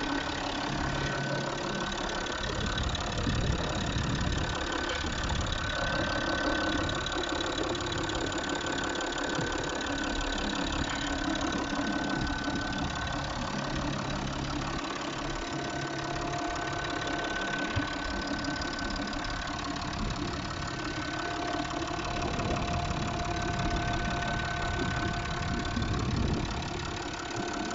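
Peugeot 607's 2.7 HDi 24-valve V6 diesel engine idling steadily; the seller lists it as in good running condition.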